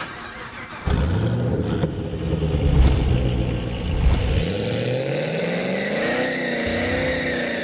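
Car engine sound cutting in suddenly about a second in, running with a low, uneven note, then revving up with a rising pitch over the last few seconds.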